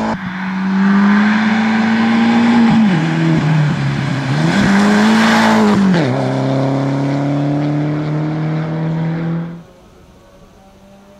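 Audi A3 rally car's engine at high revs, its pitch dropping sharply twice as the driver lifts off and changes gear around the bend, then pulling steadily at lower pitch. The sound cuts off abruptly near the end, leaving only a faint background.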